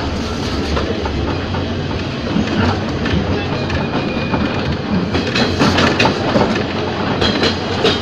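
Ex-JR 203 series electric multiple unit running on Philippine National Railways track: a steady rumble with wheels clicking and clattering over rail joints, the clicks coming thicker in the second half.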